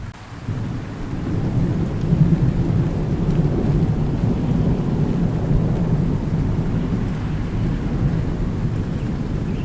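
Thunder rumbling low and long over steady rain. The rumble builds in the first couple of seconds, holds strong through the middle and eases slightly near the end.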